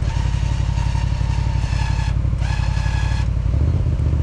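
Quad bike engine running with a dense, pulsing low note. Over it a high steady tone sounds for about two seconds, breaks off, then sounds again for about a second.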